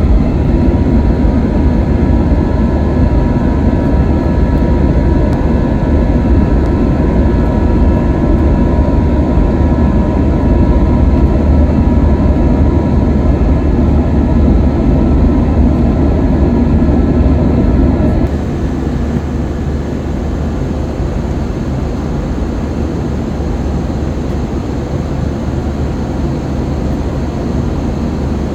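Airbus A321 cabin noise during the takeoff climb: a loud steady rumble of jet engines and airflow with faint whining tones. About 18 seconds in, the level drops suddenly and the whine fades.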